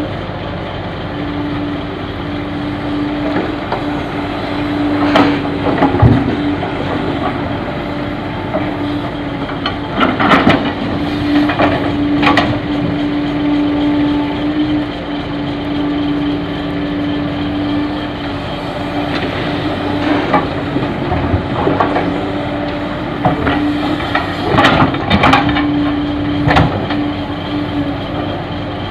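Diesel engine running steadily with a constant hum while loads of fill soil are dropped into a dump truck's bed, giving clusters of thuds and clatter several times.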